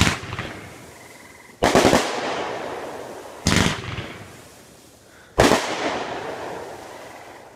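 Red October fireworks going off: four loud bangs about every two seconds, each trailing off over a second or so.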